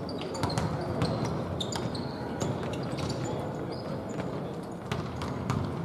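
Basketball bouncing on a court during play: irregular sharp knocks, mixed with short high squeaks and a steady hall background noise.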